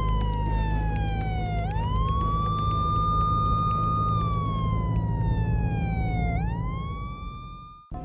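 Police car siren wailing: the tone holds, falls slowly, then sweeps quickly back up, twice. A steady low vehicle engine hum runs beneath it. Both fade out near the end and cut off.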